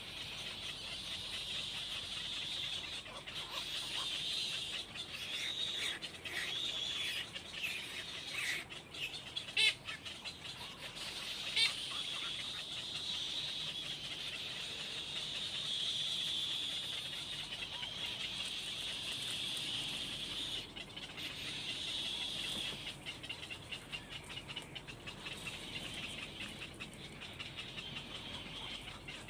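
Birds cheeping almost without a break in a high-pitched chorus, with two sharp ticks about ten and twelve seconds in.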